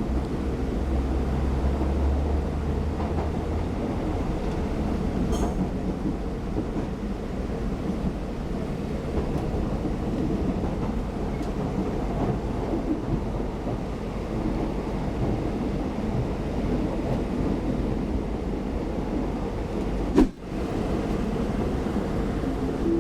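Electric commuter train (KRL) running along the track, a steady rumble of wheels and motors, heavier low rumble in the first few seconds. A single sharp click near the end.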